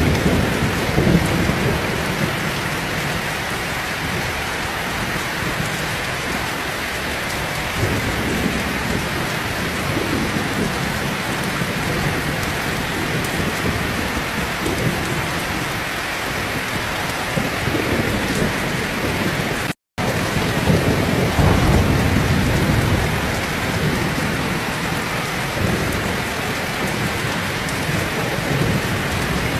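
Heavy rain pouring steadily, with low thunder rumbling in several slow swells. The sound drops out for a split second about two-thirds of the way through.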